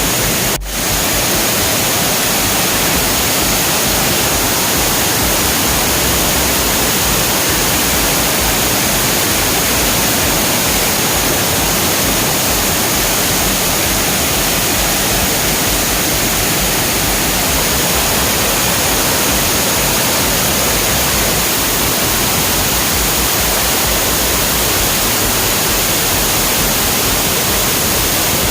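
Steady, loud rush of a large waterfall in heavy monsoon flow, with a brief dropout about half a second in.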